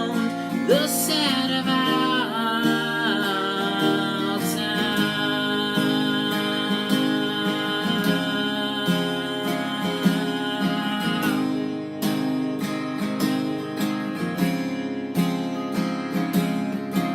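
Music: a song played on acoustic guitar, strummed and picked, with no words sung.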